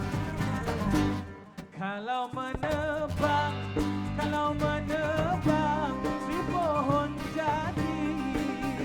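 Live band playing a Malay zapin tune, with plucked strings, bass and percussion. The music dips briefly about a second and a half in, then a wavering lead melody with pitch bends comes in over a steady bass line.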